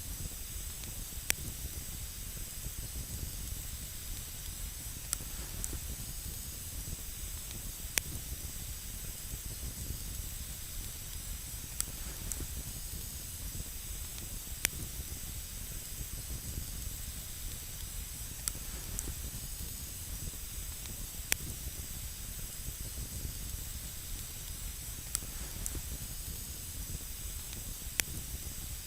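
Wood campfire burning with a steady hiss and a sharp crackle or pop every few seconds.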